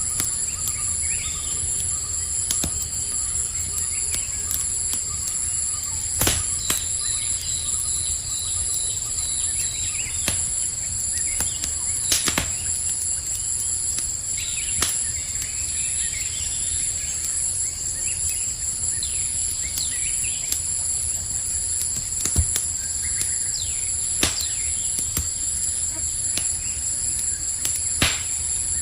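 Campfire crackling, with sharp pops every few seconds over a low rumble, set against the steady high chirring of crickets and a few faint bird chirps.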